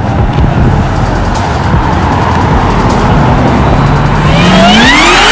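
A car's engine running loudly as the car drives off, then revving hard with a steadily rising pitch from about three and a half seconds in as it accelerates.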